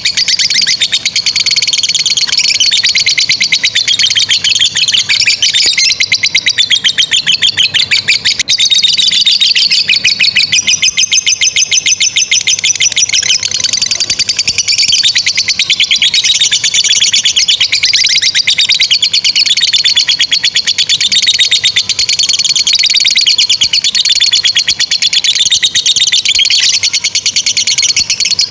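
Lovebirds ngekek: a long, unbroken run of very rapid, high-pitched chattering trills, the sustained song that lovebird keepers prize and play to train other birds.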